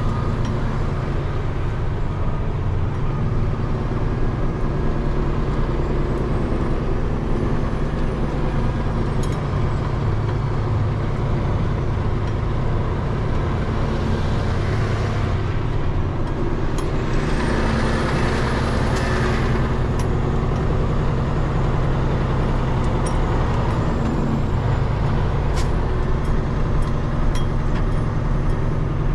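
Peterbilt 589 dump truck's diesel engine running steadily as the truck drives, with two brief hissing rushes about halfway through.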